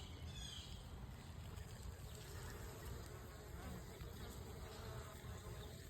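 Honeybees buzzing around their hive: a faint, steady low hum of many bees.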